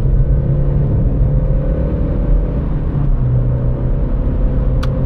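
Opel/Vauxhall Corsa B's 1.2 16-valve four-cylinder engine droning steadily under way at road speed, with tyre and road rumble, heard from inside the car, through its newly fitted exhaust pipe. A single short click comes near the end.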